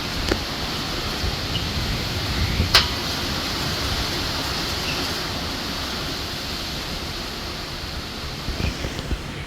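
Hurricane Helene's wind and rain making a steady rushing noise, with a sharp tick nearly three seconds in.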